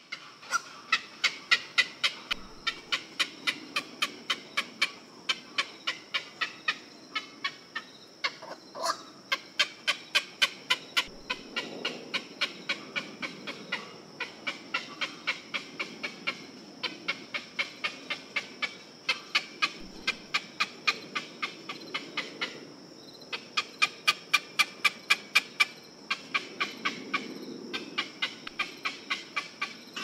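A bird calling in long runs of short, sharp, evenly spaced notes, about three a second, with brief pauses between runs. A steady high hiss runs underneath.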